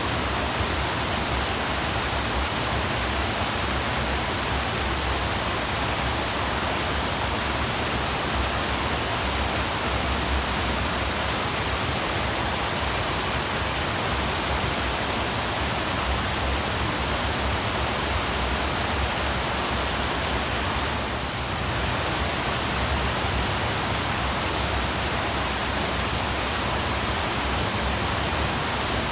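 Waterfall: a steady, even rush of falling water, dipping slightly for a moment about three quarters of the way through.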